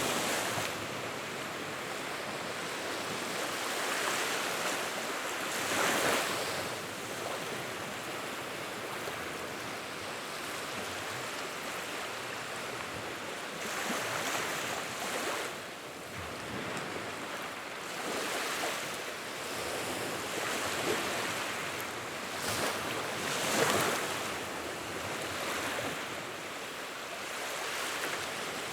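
Wood fire burning in a fireplace: a steady crackling hiss that swells every few seconds, with an occasional sharper pop.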